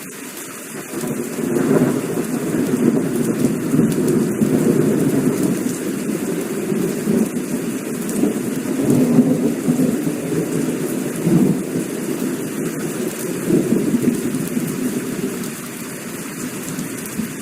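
Heavy rain falling steadily, with a long rolling rumble of thunder that builds about a second in, swells and ebbs several times, and eases off near the end.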